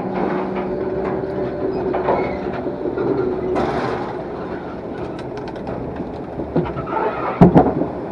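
Log flume ride running: a steady mechanical hum with rattling and clicking as the log boat is carried along, and a sharp knock near the end.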